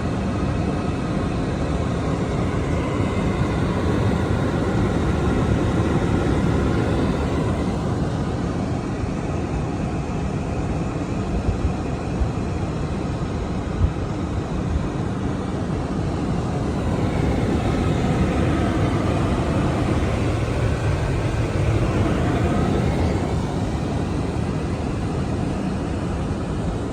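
Steady rumble of a vehicle running, with a faint engine drone that comes and goes.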